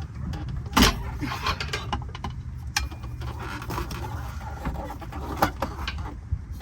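Hand tools clicking and knocking on metal parts, with one sharp click about a second in and a few lighter ones after, over a low steady hum.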